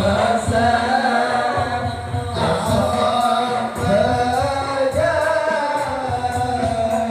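Sholawat, Madurese Islamic devotional song, sung in long melodic phrases over a steady beat of low drum strokes.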